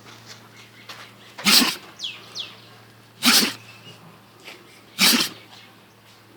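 A dog sneezing three times in a row, about every second and three quarters, in a sneezing fit.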